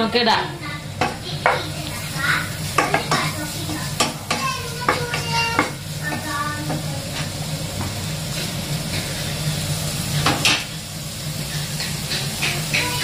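Onion-tomato masala sizzling in a nonstick pan while a spatula stirs and scrapes it, with frequent short clicks of the spatula against the pan. A steady low hum runs underneath.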